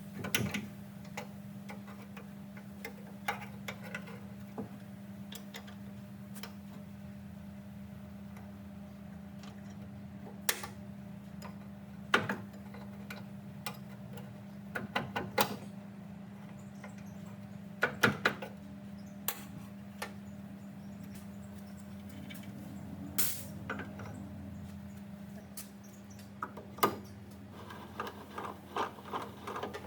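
Scattered sharp clicks and knocks, some in quick little clusters, of metal parts being handled during a machine restoration, over a steady low hum.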